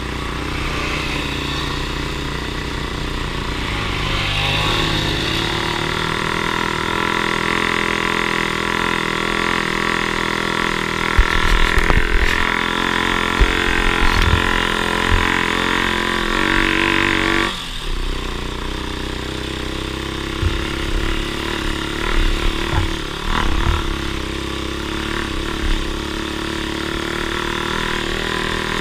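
Off-road vehicle engine running steadily, with a brief change in engine pitch about two-thirds of the way through and scattered low thumps.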